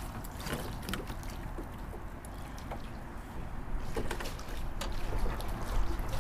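Small boat sitting on the water, with a steady low wind rumble on the mic, water lapping at the hull and scattered light clicks and knocks from handling on board.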